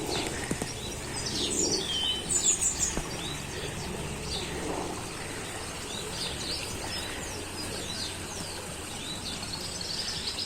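Several wild birds chirping and singing, many short calls and trills overlapping, over a steady outdoor background hiss.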